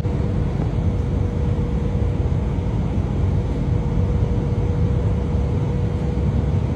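Airliner passenger-cabin noise: a steady, dense low rumble with a thin constant tone running through it.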